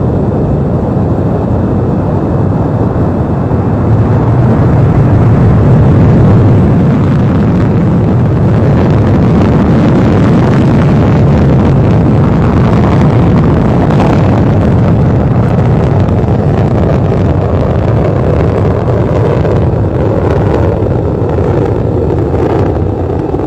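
Soyuz-FG rocket's engines at liftoff and during the climb away: a loud, continuous deep rumble of rocket exhaust. It builds to its peak about six seconds in, then holds steady.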